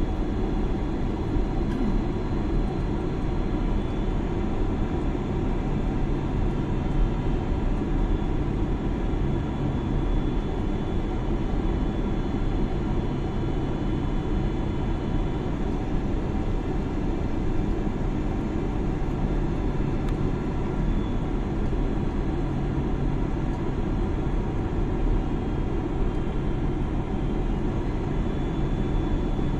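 Steady cabin noise of a jet airliner in flight: an even roar of engines and airflow with a few steady hums running through it.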